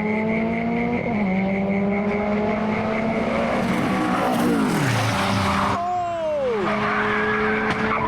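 Rally car engine revving hard on a tarmac stage, its pitch climbing through the gears, then dropping sharply about five seconds in and again near six seconds as the driver lifts off.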